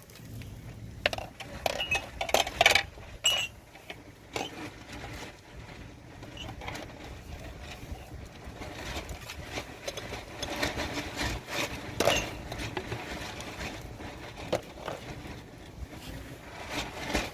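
Irregular knocks and clinks of objects being handled, bunched in the first few seconds, with single ones about twelve seconds in and near the end, over a low steady rumble.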